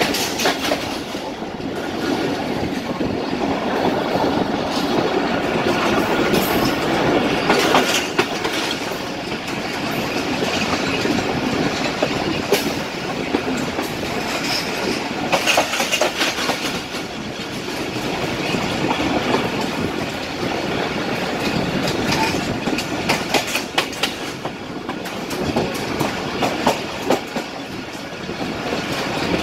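Pakistan Railways express train coaches running along the track, heard from an open coach window or doorway: a steady rumble with many clicks of the wheels passing over the rail joints.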